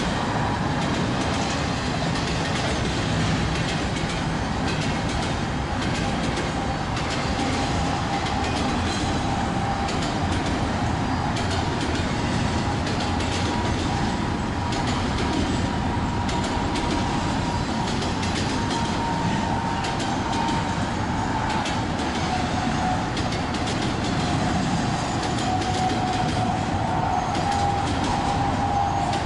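Freight train of boxcars and double-stack container cars rolling steadily past: a continuous rumble of wheels on rail with clicks over the rail joints. A thin high squeal runs through it.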